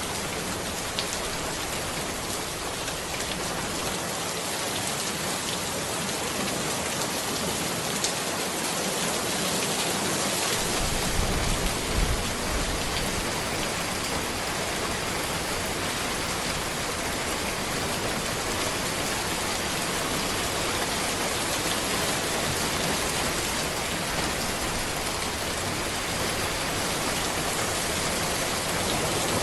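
Steady rain falling on a road, an even hiss of drops. A little over a third of the way in, a short low rumble with a couple of brief thuds rises under the rain.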